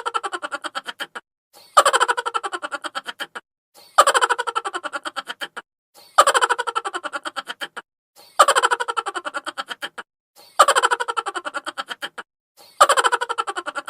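Chipmunk laugh sound effect: a pitched-up laugh of rapid 'ha-ha' pulses that falls in pitch. It is looped, so the same laugh repeats about every two seconds, six or seven times.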